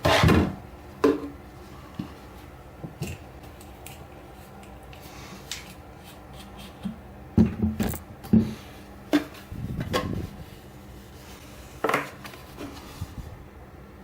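Irregular clicks, taps and knocks of tools and parts being handled, loudest right at the start, in a cluster of knocks around the middle, and once more near the end.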